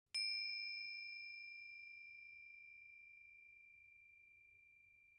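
A small meditation bell or chime struck once, marking the close of the practice, its high pure ring fading slowly.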